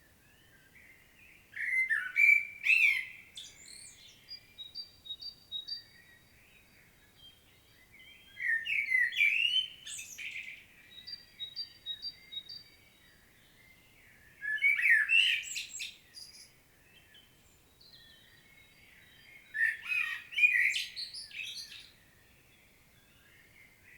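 Common blackbird singing: four loud warbling phrases separated by pauses of a few seconds. Fainter high notes repeat evenly in two of the gaps.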